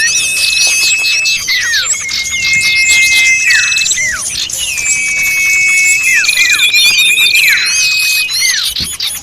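A dense chorus of small birds calling over one another: overlapping high chirps, trills and quick down-slurred notes, with long steady whistled notes held for a second or more. It is a bird-lure recording of noisy mixed small-bird calls, played to draw small birds in.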